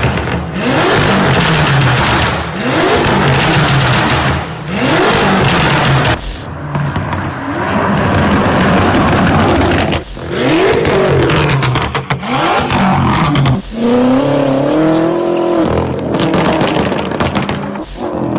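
Loud modified car exhausts in a run of short clips, engines revved hard and repeatedly, the note climbing and dropping back about once a second. Near the end comes a rapid string of pops and crackles.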